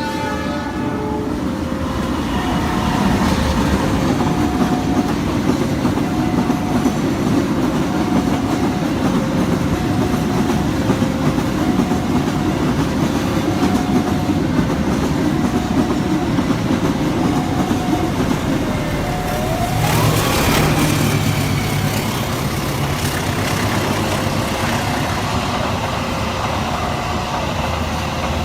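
A long train passing: the steady rumble and clatter of its wheels on the rails. Through it a level-crossing warning alarm sounds, two alternating pitches repeating evenly, about one beep a second. About two-thirds in there is a rising whine and a brief louder burst.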